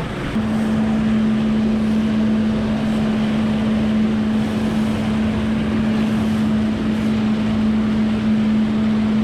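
Jet ski engine running at a steady pace, a constant drone under wind buffeting the microphone and water rushing past the hull. The drone and the overall level rise about half a second in.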